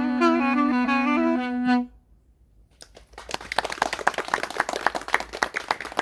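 Duduk in A playing the closing notes of a melody over a steady drone note, stopping about two seconds in. After a short pause, applause starts about three seconds in and continues.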